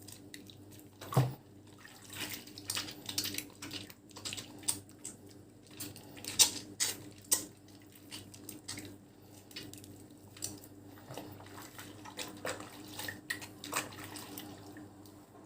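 Wet bar of Nefis lavender soap being lathered: irregular squelching and wet clicking of soap, water and foam.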